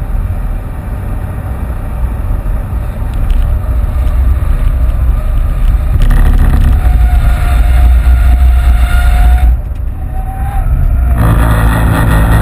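Inside the cabin of a Ford Fiesta 1.6 TDCi, a four-cylinder turbodiesel, running under load with heavy road and wind rumble. The engine note grows louder about six seconds in, dips briefly near ten seconds, then comes back strongly.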